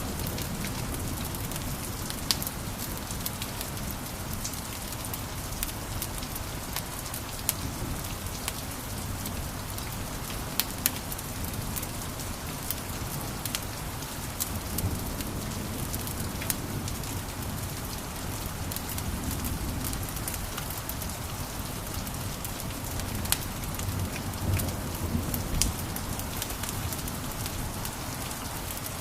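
Wood fire crackling in a fireplace: scattered, irregular sharp pops and snaps over a steady hiss and a low rumble of the flames.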